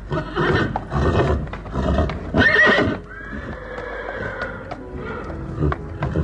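A horse neighing: a loud, shaky high whinny about two and a half seconds in, after a run of heavy pulses about twice a second, then a long drawn-out call that fades. Sharp hoof clops follow, scattered through the second half.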